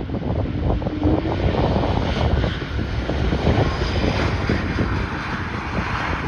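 Airliner engines passing, mixed with heavy gusty wind buffeting the microphone; the engine hiss swells through the middle.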